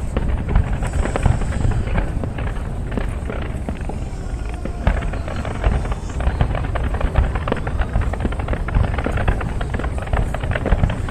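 Fireworks salute: a dense, unbroken run of crackles and sharp bangs over a steady low rumble.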